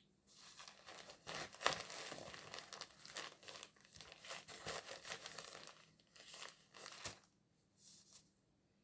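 Crinkling, rustling handling noise in a run of irregular bursts with sharp crackles, loudest about a second and a half in, then two small rustles near the end.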